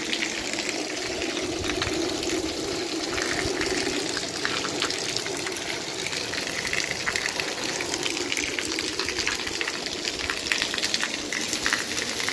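Steady rain, with water pouring from a roof spout and splashing onto the wet pavement: a continuous rushing with a dense patter of drops.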